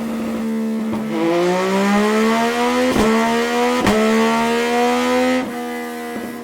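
Yamaha MT-09's three-cylinder engine through a Scorpion Red Power exhaust, running at a steady high pitch; about a second in the pitch climbs and it gets louder as the revs rise. Two sharp cracks come about a second apart midway, and the sound drops back near the end.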